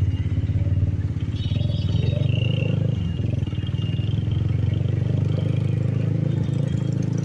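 Benelli TNT 25's single-cylinder engine and exhaust running under way, a steady, fast-pulsing drone.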